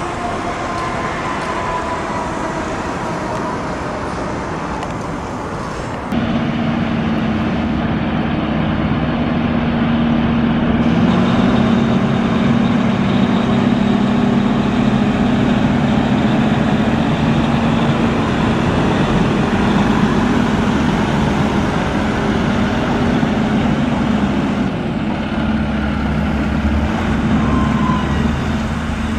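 Fire truck engines running with road traffic noise. About six seconds in, the sound cuts abruptly to a louder, steady engine drone, and a faint falling tone fades out in the first second.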